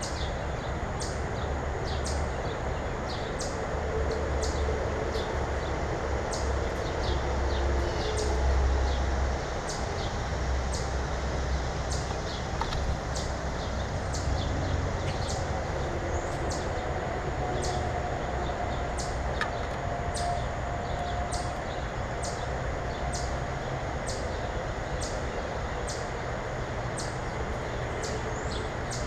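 Small birds at a feeder giving short, high chip notes over and over, about one or two a second, over a steady low rumble.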